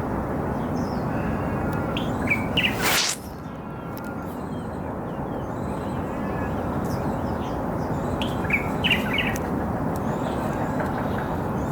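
Small birds giving short high chirps, in a cluster a little over two seconds in and another near nine seconds, over a steady low background rumble. A brief loud rush of noise cuts across just before three seconds in.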